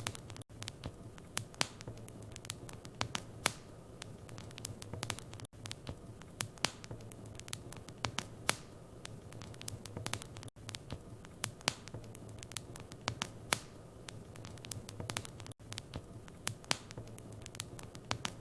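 Wood fire burning in a fireplace, crackling and popping at irregular intervals over a soft hiss, with a steady low hum underneath. Tiny breaks in the sound come about every five seconds.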